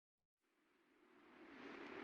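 A rushing noise fading in from silence and growing steadily louder.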